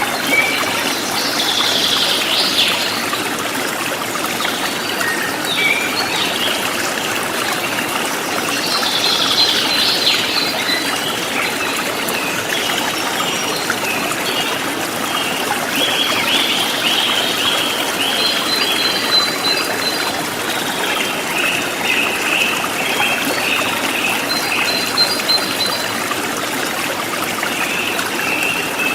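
Forest stream flowing steadily, with songbirds chirping over it. There is a burst of calls a couple of seconds in, another about a third of the way through, and a run of repeated chirps through the second half.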